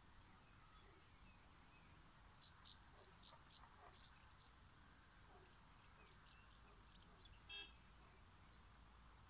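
Near silence outdoors with faint bird chirps: a quick run of about six short high chirps a few seconds in, a few more later, and one brief, slightly louder call near the end.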